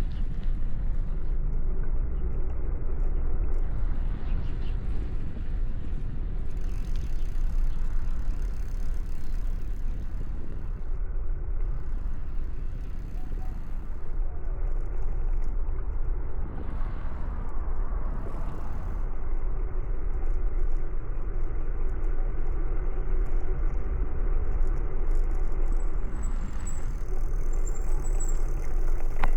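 Street noise heard from a moving bicycle: a steady low rumble with the sound of road traffic.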